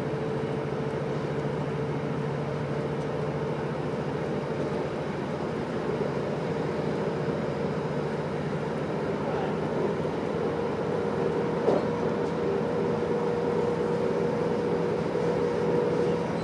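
Diesel train running steadily along the track, heard from inside the carriage: an even rumble with a constant drone, and a single small click about twelve seconds in.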